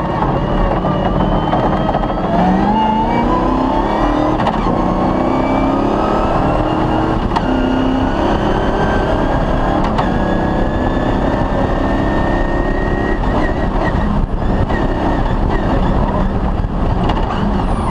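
Off-road rally car's engine running hard, its pitch rising as it accelerates, most sharply a few seconds in.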